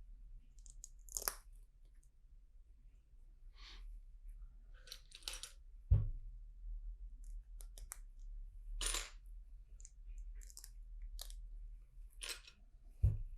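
LEGO bricks being handled and pressed together: scattered small plastic clicks and rattles, with two dull knocks against the table, about six seconds in and near the end.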